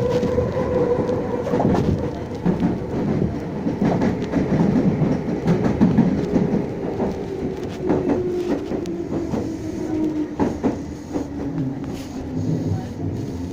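Meitetsu 6500 series electric train heard from inside the car while running: steady rumble with wheels clicking over rail joints. Over the second half a motor whine falls steadily in pitch as the train slows.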